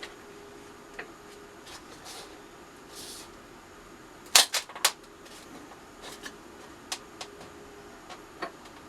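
Workshop handling sounds of small plywood box parts and clamps on a bench: scattered light clicks and taps, with a quick run of three sharp clacks about four and a half seconds in. There are a couple of brief rustles early on, over a faint steady hum.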